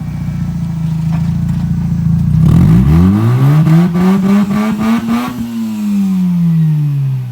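Mazda RX-8's twin-rotor rotary engine running steadily, then revved up smoothly for about three seconds and let fall back.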